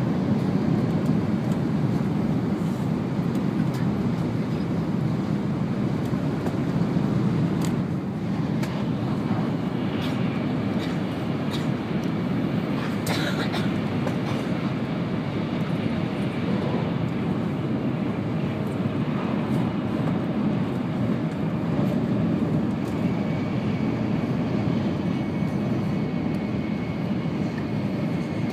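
Steady running noise heard inside the cabin of an N700 series Shinkansen at speed: a low, even rumble of wheels and air. A few light clicks come around the middle, and a faint high steady whine comes in over the last few seconds.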